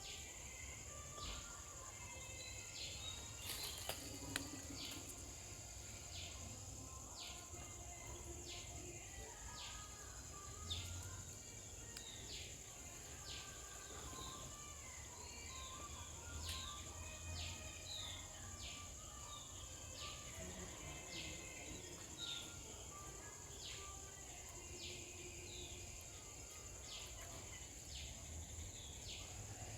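Outdoor garden ambience: a steady high insect drone, with short, high, falling chirps repeated about once a second and a low background rumble.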